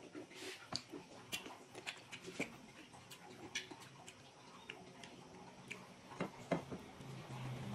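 Mouth sounds of someone eating juicy pomelo close to the microphone: irregular wet clicks and smacks of chewing. A low hum starts near the end.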